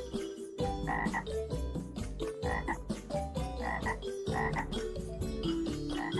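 Frog sound effect: a steady pulsing croak with louder calls repeating about five times.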